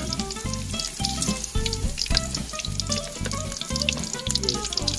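Battered fruit pieces deep-frying in a wok of very hot oil: a busy sizzle full of tiny pops. Background music with a steady beat plays under it.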